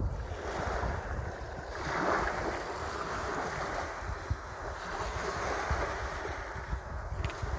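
Sea waves washing in, one swell building about two seconds in, with wind buffeting the microphone in low gusts.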